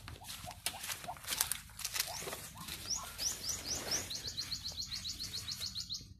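A bird calling: scattered light chirps, then from about three seconds in a rapid series of short, high, falling chirps, about seven a second.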